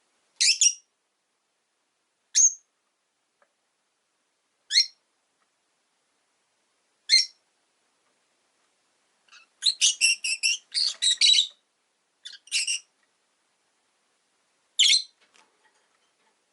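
Rosy-faced lovebirds giving short, sharp, high chirps: single calls about every two seconds, then a fast run of chirps about ten seconds in, and one last call near the end.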